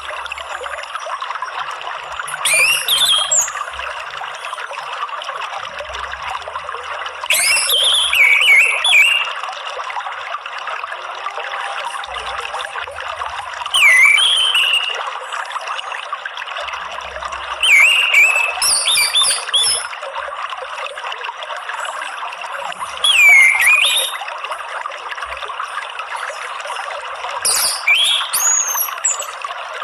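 Steady trickling water with an orange-headed thrush's short whistled phrases over it, six of them, one every four to five seconds.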